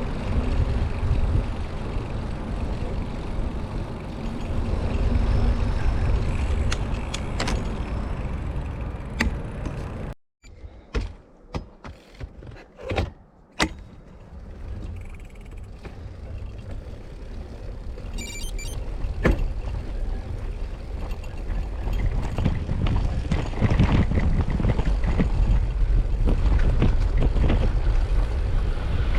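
Wind buffeting the microphone of a moving bicycle, a steady low rumble. About ten seconds in it cuts out abruptly. A few knocks and clicks follow over a quieter stretch, then the rumble builds back up over the second half.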